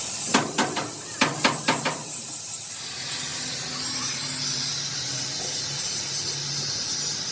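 A steady hiss with a low hum beneath it, after a handful of sharp knocks in the first two seconds.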